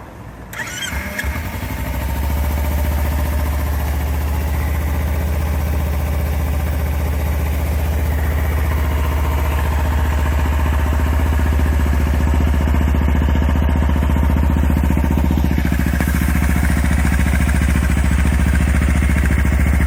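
Kawasaki Ninja 250 motorcycle exhaust through a BEAMS R-EVO stainless slip-on muffler. The sound comes up over the first couple of seconds, then runs steadily at idle with a strong low note.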